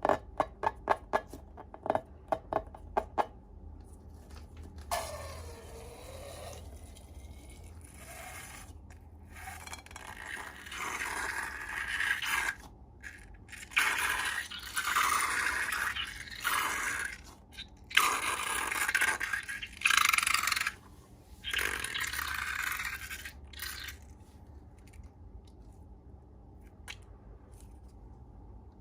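Slime being worked: first a quick run of about ten sharp clicks, then repeated stretches of scraping and squishing, each a second or two long, stopping about two-thirds of the way through.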